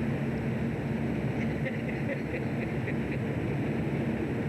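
Steady low drone of a fishing boat's engine and deck machinery running, with a few faint light ticks in the middle.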